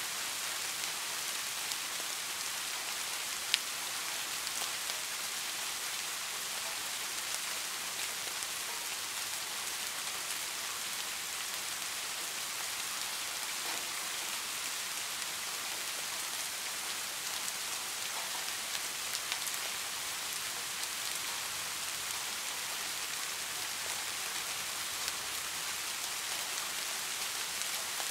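Steady rain falling: an even hiss with scattered faint drop ticks, and one sharper tick about three and a half seconds in.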